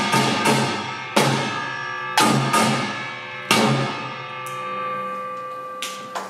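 Samulnori percussion (small kkwaenggwari gong, large jing gong, janggu hourglass drum and buk barrel drum) playing the closing strokes of the piece: loud unison hits about a second apart, each leaving the gongs ringing and fading. The strokes slow and thin out, with one last stroke near the end.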